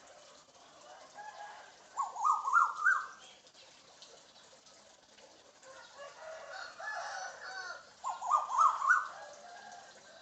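African grey parrot calling: two loud runs of about five quick chirps, each chirp rising and each pitched a little higher than the last, about two seconds in and again near the end, with softer calls between them.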